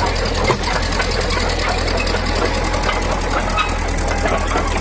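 Caterpillar D4D crawler bulldozer's diesel engine running steadily as the machine moves, with a short knock about half a second in.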